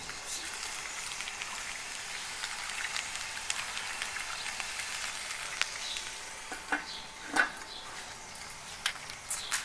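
Food sizzling steadily, with a few light knocks; the loudest knock comes about seven and a half seconds in.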